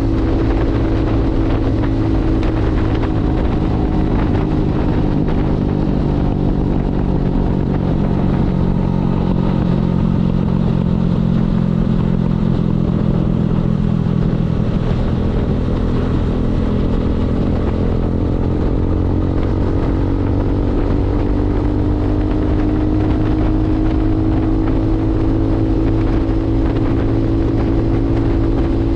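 Motorcycle engine running under way. Its note drops lower through the middle and then climbs slowly and steadily back up in the last third as the bike speeds up again.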